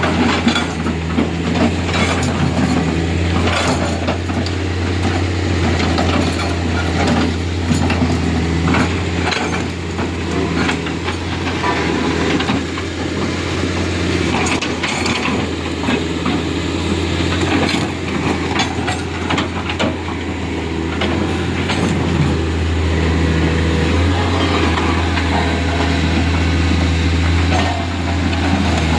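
A heavy diesel engine running steadily with a low hum, with frequent short metallic clanks and knocks throughout.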